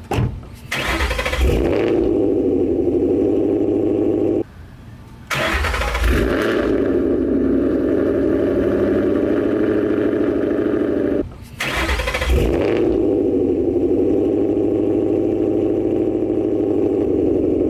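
Ford Mustang GT 5.0 V8 with long-tube headers, X-pipe, Roush axle-backs and refitted resonators cold-starting: the engine catches with a brief rev flare and settles into a steady high cold idle. The start is heard three times, with two short breaks between.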